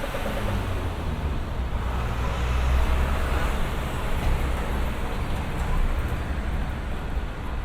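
Road traffic going by, a continuous rumble of engines and tyres that swells as vehicles pass about two to four seconds in and again near six seconds.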